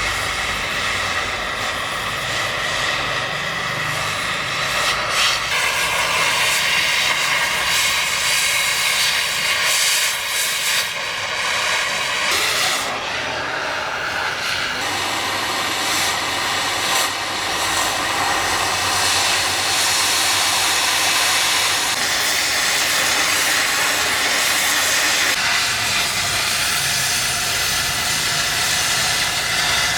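Gas cutting torch flame hissing steadily as it cuts steel, its tone shifting a few times.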